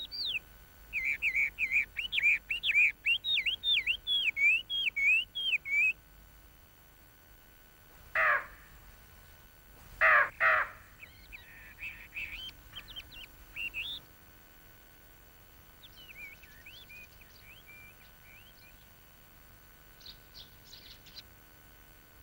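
Birds calling: a quick run of high chirping notes for about five seconds, then three harsh caws, one about eight seconds in and two close together about two seconds later, followed by sparser, fainter chirps.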